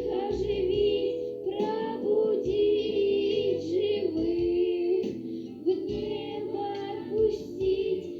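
A song: a high voice singing a melody over an instrumental backing with a steady bass.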